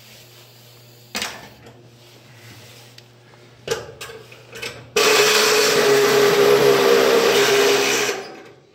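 A handheld power tool is run in a few short bursts, then runs steadily for about three seconds from about five seconds in before stopping.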